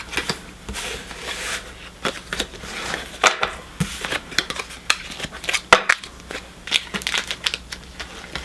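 Crinkling and crumpling of a foil Pokémon booster pack wrapper being handled, with irregular crackles and sharp clicks.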